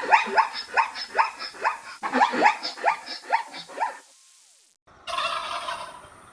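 Turkeys gobbling: two runs of quick, falling notes over about four seconds. After a short break, a different, noisier animal sound starts near the end.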